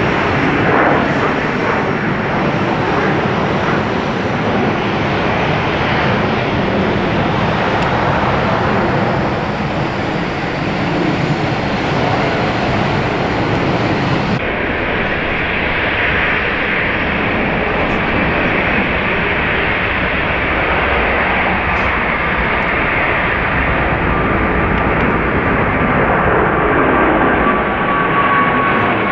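Jet airliner engines running loud and steady, with a thin whine that slowly falls in pitch near the end.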